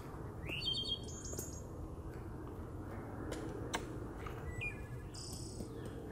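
Small birds chirping in short bursts of high, quick notes, a cluster about a second in and more near the end, over a steady low outdoor background noise.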